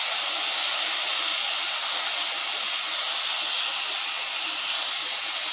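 Steady sizzling hiss of poha (flattened rice with potato and peanuts) cooking in oil in a nonstick pan on low flame.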